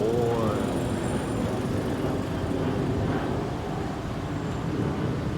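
Passenger plane flying low overhead: a steady low rumble mixed with road traffic.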